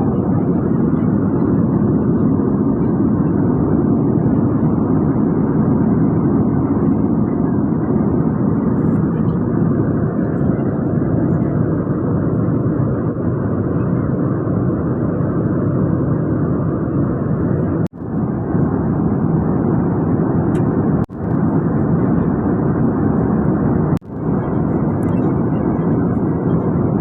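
Steady roar of jet airliner cabin noise in flight, with three very brief drops in the last third.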